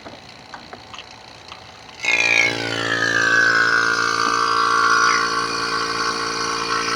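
A few light clicks, then about two seconds in an electric AC vacuum pump starts running with a steady hum. A whistling tone falls in pitch and settles as the pump begins pulling a vacuum on the car's AC system through the manifold gauges.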